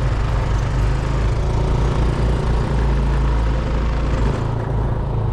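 Moped engine running steadily.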